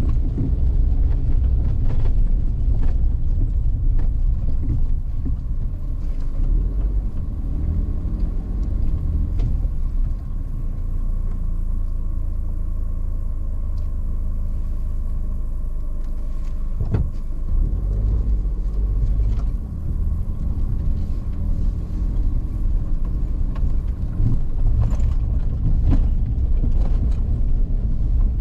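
Vehicle driving along a rough forest road: a steady low rumble of engine and tyres, with scattered knocks and clicks from the uneven surface.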